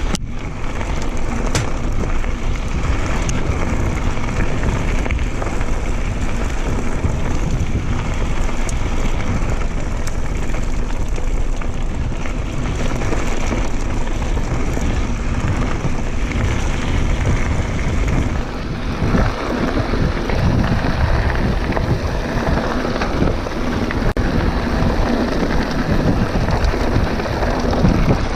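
Mountain bike riding noise: wind rumbling over the camera microphone, with bike tyres rolling over a dirt trail. The sound is steady, and its character shifts about two-thirds of the way through.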